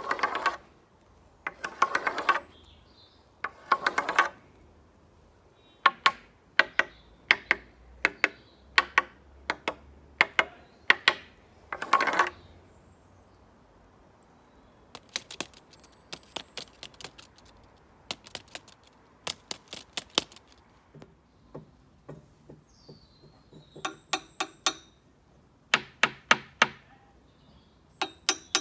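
A drumming beater tapping on one surface after another: groups of sharp taps, a few quick rattling runs, and in the last third strikes that ring on with a clear tone.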